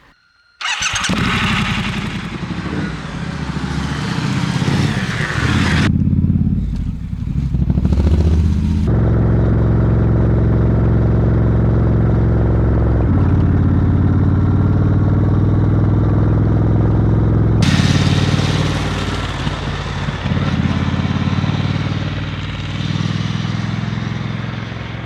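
Triumph Scrambler 1200 XE's 1200 cc parallel-twin engine running while the bike is ridden. It cuts in suddenly about half a second in and dips briefly twice, around six and nine seconds in, as it changes gear. It then holds a steady note at cruising speed before easing off near the end.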